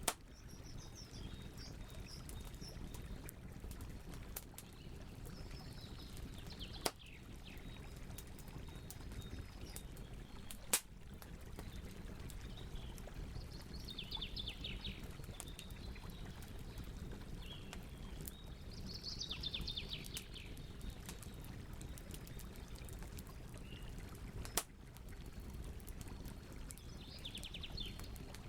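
Campfire burning with a steady low rush and a few sharp pops of the wood, the loudest about seven, eleven and twenty-four seconds in. Birds sing short rapid trilling phrases about five times over it.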